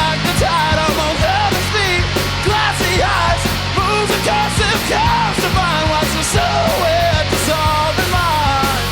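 Loud live punk-style rock band playing, with regular drum hits over sustained bass and guitar.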